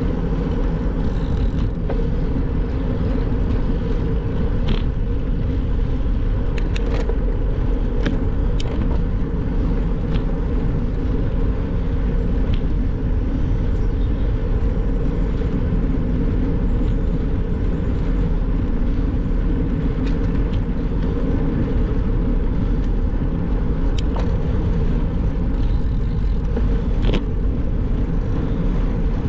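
Steady low rumble of wind and road noise from a bicycle riding along, with a few short clicks and rattles here and there.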